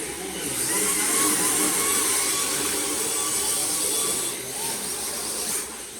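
Radio-controlled drift cars running: small electric motors whining and wavering in pitch over a steady high hiss of tyres sliding on the track.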